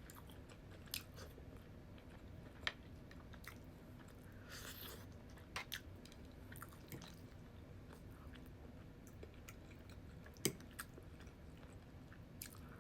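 A person chewing food close to the microphone, with sharp wet mouth clicks and smacks now and then; the loudest smack comes about ten and a half seconds in.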